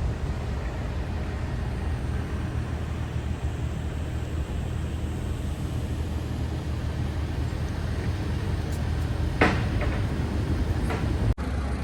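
City street ambience with a steady low hum of vehicle engines. A sharp knock comes about nine and a half seconds in, a fainter one a second later, and the sound drops out briefly near the end.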